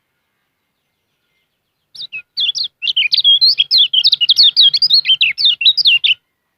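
Kecial kuning, a Lombok white-eye, singing a fast, high twittering song of rapid sharp chirps. The song starts about two seconds in and stops shortly before the end.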